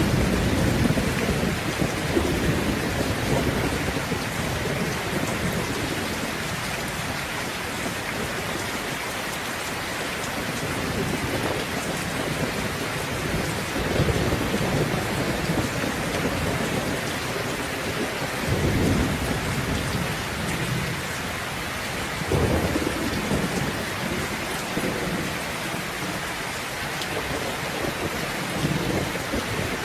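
Steady heavy rain hissing on surfaces, with rolls of thunder rumbling low several times: at the start, then about halfway, and again near the end.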